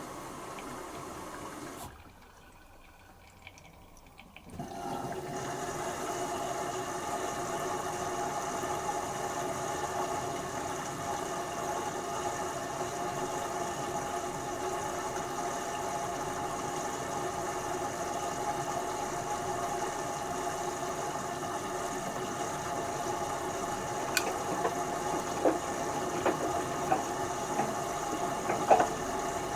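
LG Turbowash 360 direct-drive washing machine during its fill stage: water inflow stops about two seconds in, and after a short lull the drum's motor starts and runs with a steady hum as the drum turns. A few light knocks come near the end.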